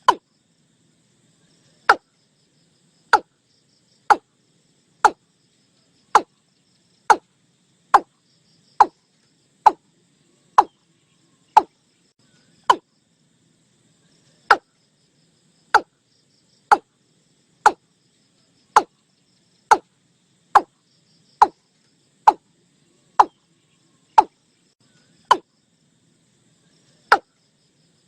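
Watercock calling: a long series of short, sharp notes about one a second, broken by a couple of longer pauses.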